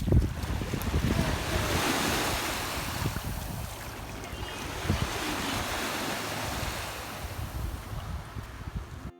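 Lake Huron waves washing onto the shore, the surf swelling and easing, with wind buffeting the microphone in a low rumble. The sound cuts off abruptly near the end.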